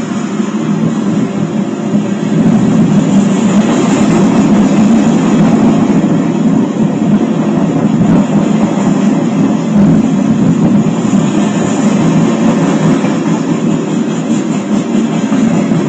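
Freight train of grain hopper cars rolling steadily past on the rails, a loud continuous rumble and rattle of wheels on track.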